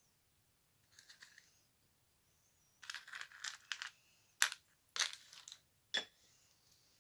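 Slime being squeezed and worked by hand, giving bursts of crackling and then three sharp pops about half a second to a second apart.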